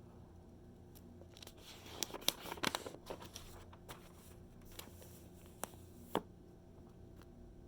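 Glossy magazine page being turned by hand: a crinkly paper rustle from about one and a half to three seconds in, followed by a few light ticks of paper being handled.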